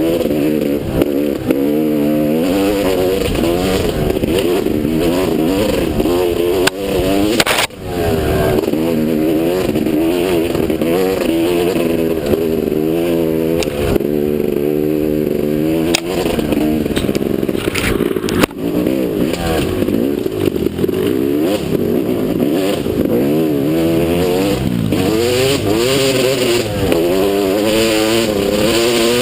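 Motocross motorcycle engine running hard, its revs rising and falling over and over as the throttle opens and closes. Two sharp knocks cut through it, about a third and two thirds of the way in.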